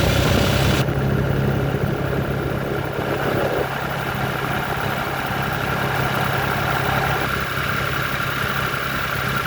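Harvester tractor engine idling steadily.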